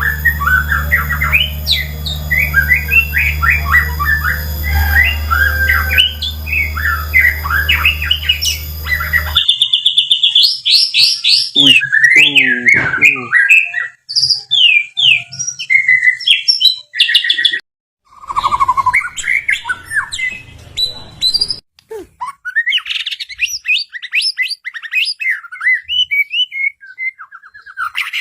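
White-rumped shama (murai batu) singing a rapid, varied song of whistled phrases, fast trills and chattering notes. It comes in several spliced recordings that cut in and out, and a steady low hum lies under the first third.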